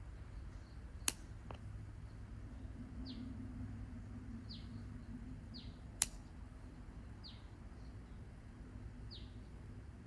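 A bird gives five short, falling chirps, spaced about a second and a half apart, over a low steady hum. Two sharp clicks, about a second in and again about six seconds in, are the loudest sounds.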